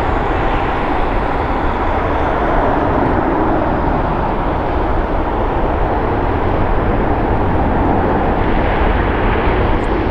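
Steady jet engine noise of an Airbus A320neo at takeoff power, a continuous loud roar that holds even throughout.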